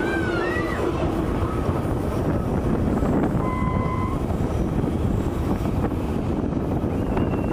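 Passenger train's coaches running on the rails, a steady loud rumble and rattle heard at an open coach window. A high squeal fades out in the first second, and a short steady whine sounds about three and a half seconds in.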